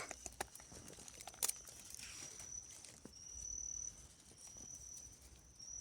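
A night insect trilling: a thin, high, steady tone in bouts of about a second, with a few faint clicks and rustles of movement and one sharper click about a second and a half in.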